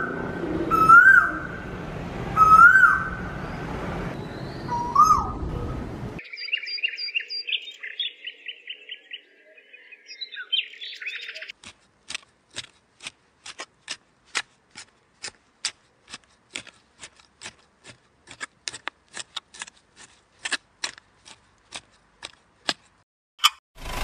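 Birdsong: a bird repeats a short rising whistled call about every second and a half over a background hiss, which cuts off suddenly about six seconds in. A higher, rapid twittering follows until about halfway. After that comes a steady series of sharp clicks, about two a second.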